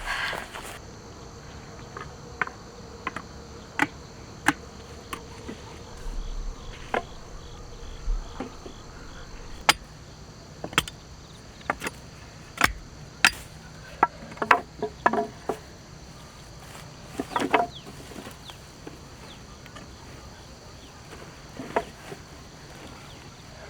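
Steady high chirring of crickets and other insects, with scattered sharp snaps and cracks of dry sticks and twigs, several in quick succession about two thirds of the way through.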